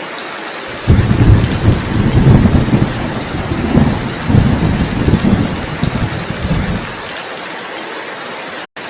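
Steady heavy rain hiss with a long low roll of thunder rumbling in about a second in and lasting some six seconds before fading back to the rain alone. The sound cuts out completely for a split second near the end.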